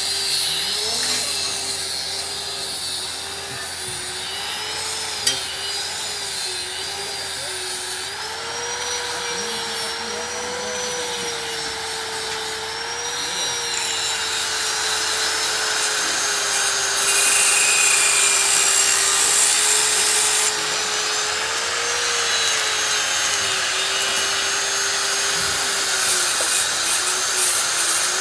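An electric power tool working on metal, running steadily with a slight wavering in pitch as the load changes, over a rasping hiss.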